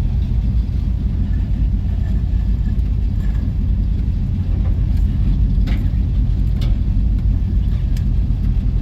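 Motor vehicle engine running steadily at low speed, a low rumble, with a few faint clicks about five to seven seconds in.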